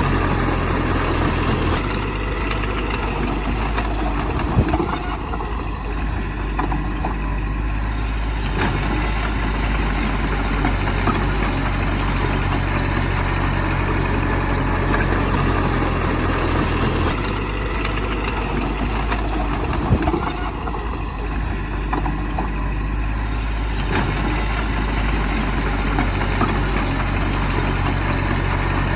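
Heavy diesel engine of earthmoving machinery running steadily. Its note shifts about 2 seconds in and again about 17 seconds in, with a sharp knock about 4 seconds in and another about 20 seconds in.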